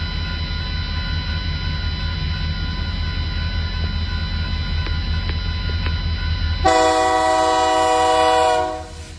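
Diesel locomotive running with a steady low engine rumble, then about seven seconds in its multi-chime air horn sounds one blast of about two seconds that cuts off sharply.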